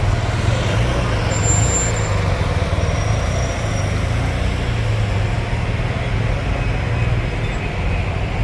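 Steady road traffic noise: a continuous deep rumble of passing vehicles.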